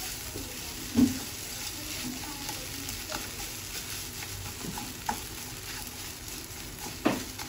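Crushed Maggi noodles, boiled potato and grated carrot sizzling gently in a nonstick pan on low heat while a wooden spatula stirs and scrapes through the mixture. A few louder knocks of the spatula on the pan stand out, about a second in and near the end.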